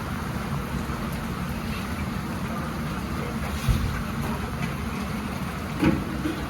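Steady low rumble of street background noise, with two brief thumps, one a little past halfway and one near the end.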